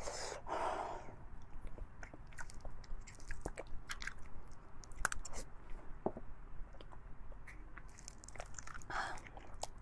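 Close-miked chewing and biting of fatty beef bone marrow: wet mouth clicks scattered throughout, with two longer, louder mouth noises, one just after the start and one near the end.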